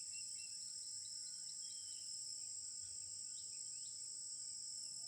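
Steady, continuous high-pitched trilling of an outdoor insect chorus, like crickets, with a few faint short chirps mixed in.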